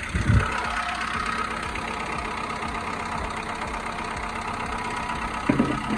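Nissan Pulsar's 1.8-litre engine idling steadily with a faint whine, not sounding the greatest: the sound of a worn timing chain that the owner says needs replacing.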